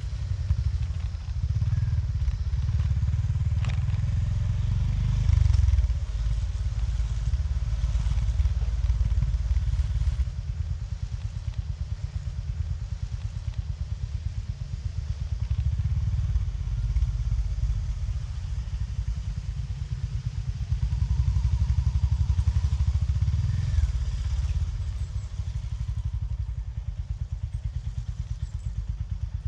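Honda GB350S's air-cooled single-cylinder engine on the move, with its deep exhaust thump. It pulls harder in the first ten seconds and again about two-thirds of the way through, and eases back in between and near the end, where the separate firing pulses come through.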